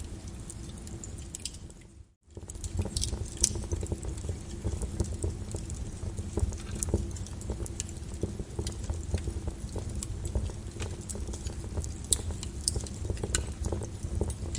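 Lava crackling and popping with many irregular sharp ticks over a low rumble. The sound fades out briefly about two seconds in and comes straight back.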